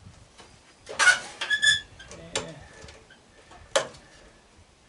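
Sharp metallic clicks and clanks from hand tools working on the metal of an old AC condenser unit. One strike rings briefly about a second and a half in, and single clicks follow a little over two seconds in and near four seconds.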